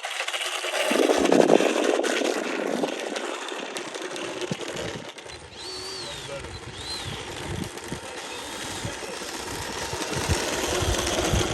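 Gusty wind buffeting the microphone: a steady rushing noise with irregular low rumbling thumps, loudest about a second in.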